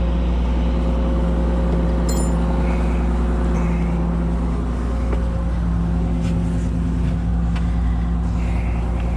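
Kobelco SK250 LC excavator's diesel engine running steadily at a constant speed, with a single sharp metallic click about two seconds in.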